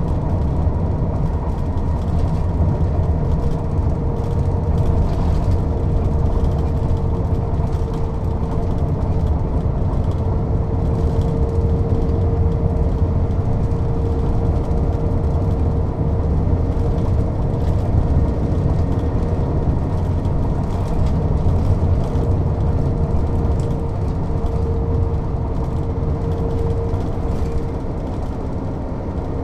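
Mercedes-Benz O 407 city bus's diesel engine running steadily while the bus is under way, a deep rumble with a steady whine on top. The level drops slightly near the end.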